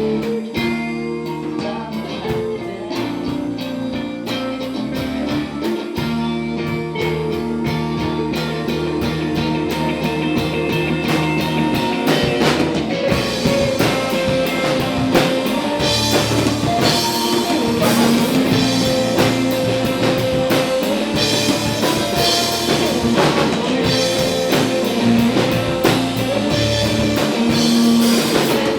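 A rock band playing live, guitar over a drum kit. About twelve seconds in the drums and cymbals fill out, and the music grows fuller and slightly louder.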